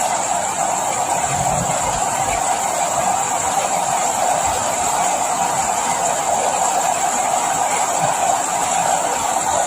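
Steady rain, an even hiss with a few faint low thuds now and then.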